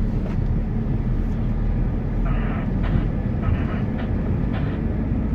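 Steady low rumble of a moving vehicle's cabin, with a few faint voices in the background.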